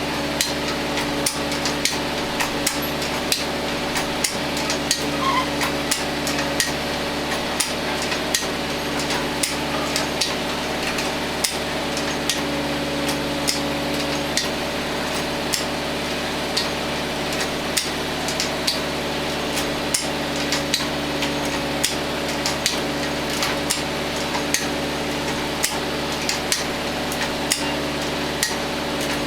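A tractor engine running at a steady idle, a constant hum, with frequent irregular sharp clicks and taps of metal over it.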